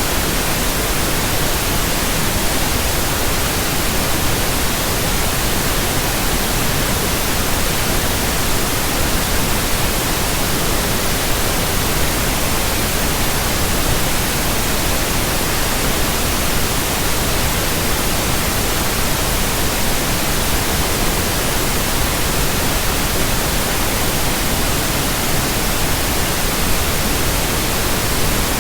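Steady pink noise: a continuous, even hiss that does not change.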